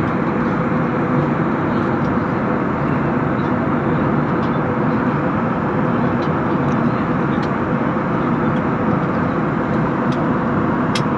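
Airliner cabin noise in flight: a steady rush of jet engine and airflow noise with a faint steady hum, and a faint click near the end.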